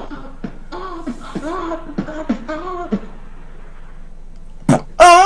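A person's voice making a run of short, high moaning sounds, each rising and falling in pitch, about two a second, then a louder cry near the end: mock sex noises.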